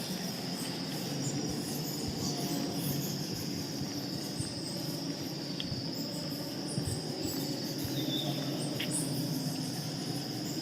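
Insects, likely crickets, chirring in a continuous high-pitched drone.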